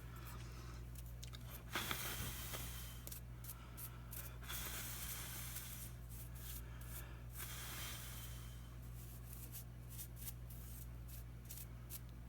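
Faint breathing close to a sensitive microphone, as soft airy hisses about every three seconds, with small scattered clicks from handling the tablet parts.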